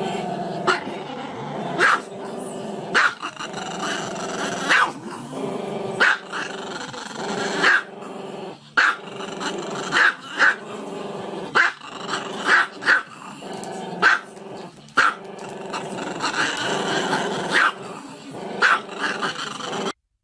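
A dog growling steadily, breaking into sharp barks about once a second, some in quick pairs. The sound cuts off abruptly just before the end.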